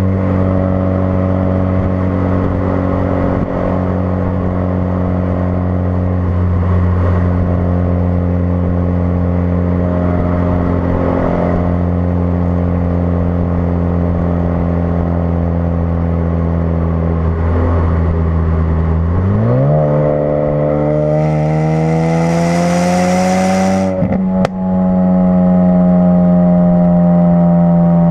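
2016 Ford Focus RS's turbocharged 2.3-litre four-cylinder, through a custom-fabricated exhaust, droning at a steady engine speed. About two-thirds of the way in the note jumps and climbs as the car accelerates hard, with a hiss near the top. After a brief break it settles into a higher steady drone.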